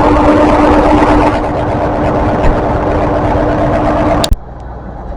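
Train's diesel engine running loud and close, a steady hum under a rushing noise, that cuts off suddenly with a click about four seconds in, leaving quieter background.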